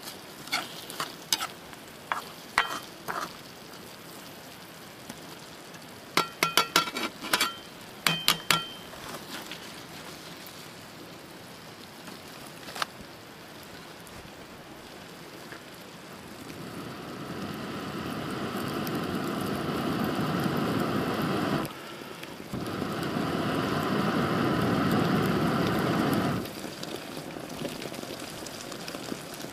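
Food sizzling in a hot iron wok, with sharp metal clinks of a utensil against the pan in the first third. The sizzle swells loud about halfway through, with a brief break near the end.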